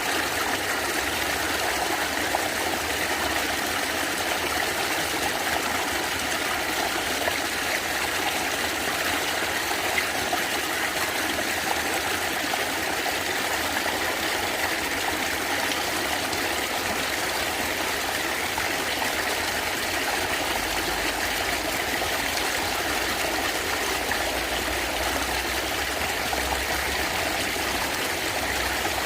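Natural stream of water running and gurgling steadily, an even rushing flow with no breaks.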